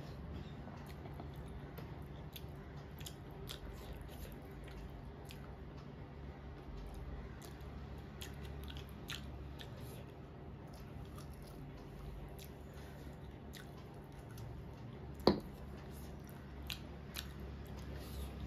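A person chewing chicken eaten by hand, with many small wet mouth clicks and one sharper click about fifteen seconds in, over a steady low hum.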